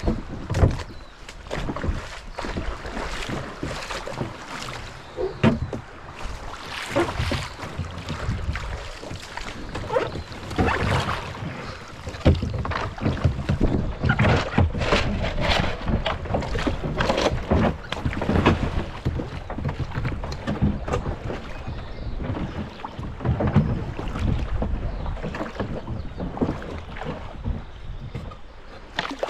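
A kayak moving down a shallow creek: irregular paddle splashes and knocks, over a low rumble of wind on the microphone.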